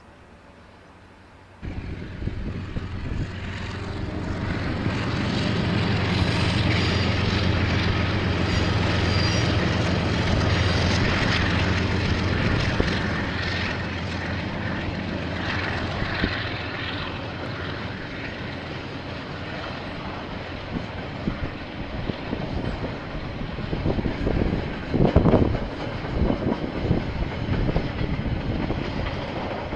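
KiwiRail train's diesel locomotive passing: a steady low engine drone that starts abruptly about two seconds in, builds to its loudest over several seconds, then slowly eases. There is a brief louder flare near the end.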